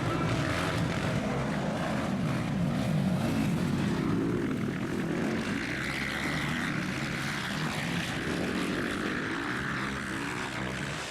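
Motocross bikes racing, their engines revving up and down, a little fainter in the second half.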